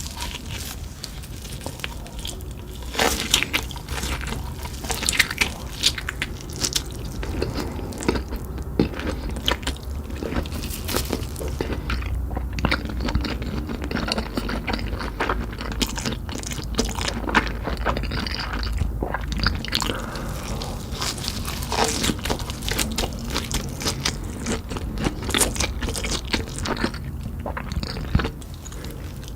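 Close-up eating sounds: crunchy bites and chewing of Cheetos-crusted fried meat fingers, with many sharp crunches coming one after another.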